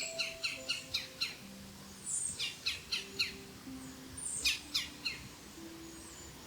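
A songbird singing phrases of five or six quick down-slurred chirps, one phrase about every two seconds. Soft background music with held low notes plays underneath.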